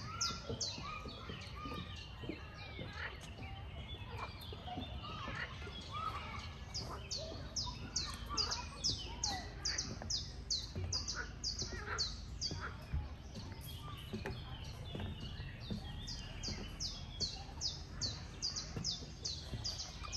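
Birds singing and calling in woodland. The loudest is a high, falling chirp repeated about two or three times a second, with other calls scattered beneath it.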